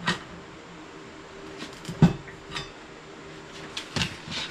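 Metal clanks and clinks from a manual tire changer and its tire tools as a tire is worked onto the rim: about five separate knocks, the loudest a heavier thud about two seconds in.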